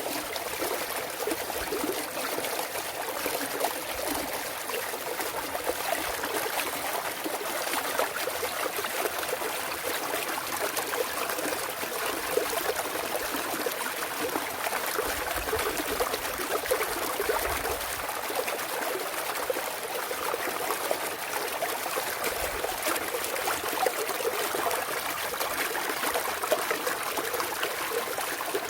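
Mountain stream trickling and splashing over rocks in a steady flow, with fine bubbly detail.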